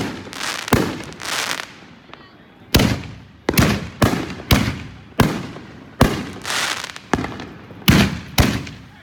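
Fireworks bursting overhead in a rapid series of about a dozen sharp bangs, roughly one every half second to a second. Several bangs trail off in a longer rushing tail.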